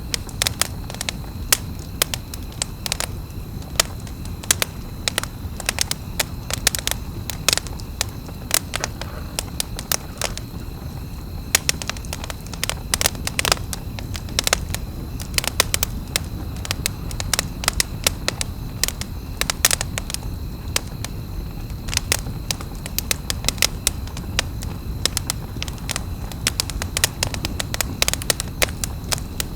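Wood campfire crackling: a dense, irregular run of sharp snaps and pops over a low, steady background of the burning fire.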